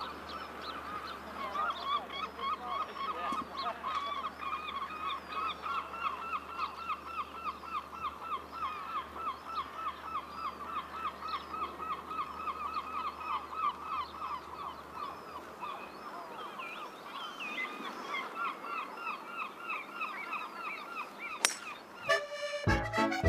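Birds calling over and over in a rapid honking series, about three calls a second, with other calls above them. Near the end comes one sharp click, a golf club striking the ball off the tee, and music starts right after it.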